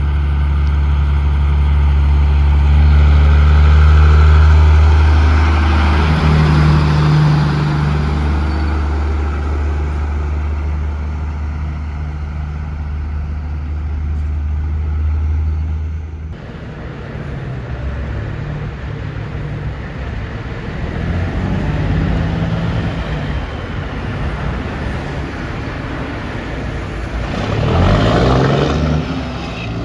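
Heavy truck engines on the road. A deep, steady engine drone stops abruptly about halfway through, then passing traffic follows. Near the end an engine revs up, rising in pitch as it accelerates away.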